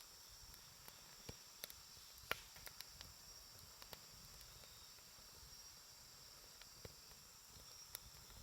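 Wood campfire crackling quietly: scattered sharp pops and snaps, the loudest about two seconds in, over a faint steady high hiss.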